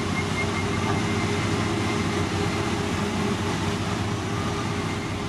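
Heavy road-construction machinery with its diesel engine running steadily.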